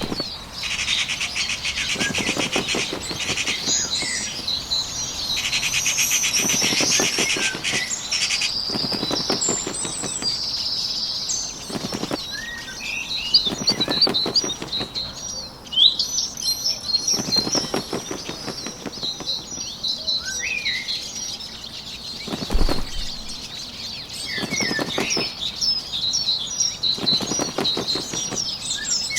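Small birds chirping and trilling, with a bird's wings fluttering in short bursts of about a second every few seconds.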